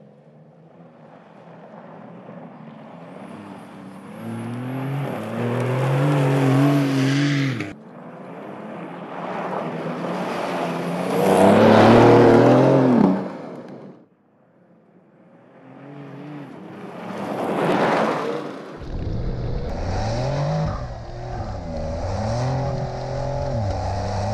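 Porsche 911 Dakar's twin-turbo flat-six engine revving hard under load as the car drives on loose sand, rising and falling in pitch. It swells to two loud close passes, about halfway and about three-quarters through, and the sound breaks off abruptly twice where shots are cut together.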